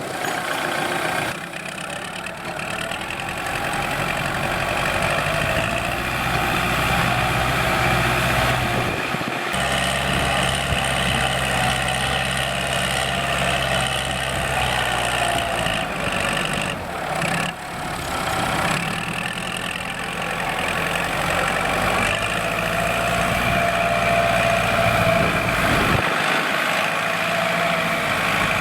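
Kubota L4708SP tractor's diesel engine running steadily, as when it pulls a plough, with sudden shifts in the engine note about a third of the way in and near the end.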